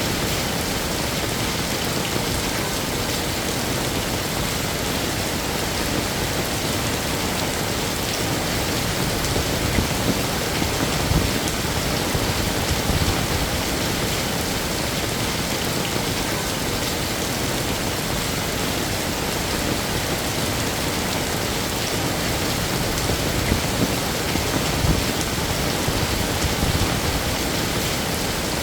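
Heavy rain falling steadily, a dense even hiss of rain on hard surfaces, with a few slightly louder moments.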